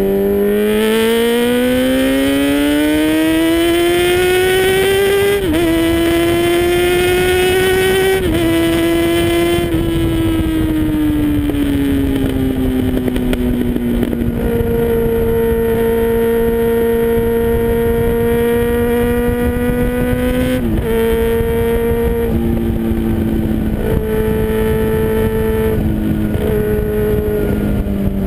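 2000 Yamaha R6's 600 cc inline-four through an MTC aftermarket exhaust, pulling up in pitch with sudden drops about five and eight seconds in, like upshifts. It then eases off and holds a steady note, with several quick changes in pitch near the end.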